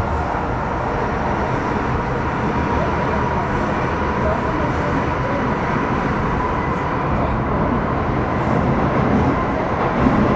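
Interior running noise of an MTR Metro Cammell M-Train electric multiple unit with GEC GTO chopper traction control, between stations: steady rumble of wheels on rail with a steady high whine.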